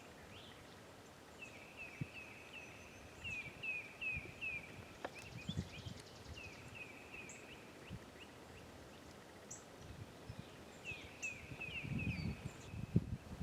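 A songbird singing two runs of short, evenly repeated slurred whistled notes, about two or three a second, faint in quiet woods. Soft rustling thumps come near the end.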